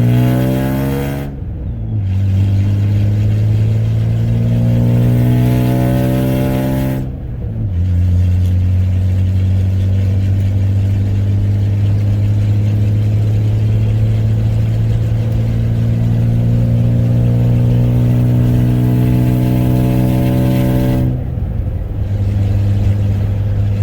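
Straight-piped Ford 4.9 L (300) straight-six in a 1995 F-150 under hard acceleration, heard from inside the cab. The exhaust note climbs in pitch and drops twice as the truck shifts up, about a second and a half in and again around seven seconds. It then settles into a steady drone that rises slowly, and falls away near the end as the throttle is eased off.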